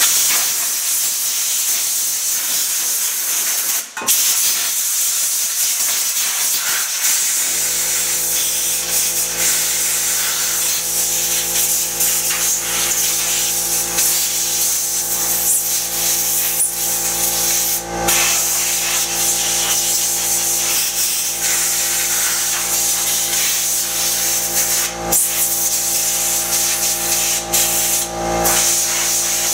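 Compressed air hissing from a blow-gun nozzle as dust is blown out of a Briggs & Stratton V22 OHV engine, breaking off briefly a few times. A steady hum joins about seven seconds in.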